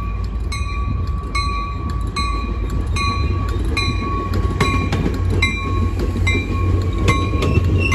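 Caltrain bilevel passenger train rolling slowly past at close range, with a steady low rumble and a few wheel clicks. A bell rings steadily throughout, about twice a second.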